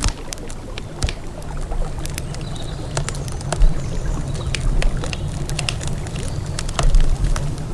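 Wood campfire crackling, with many sharp pops and snaps at irregular intervals over a steady low rumble.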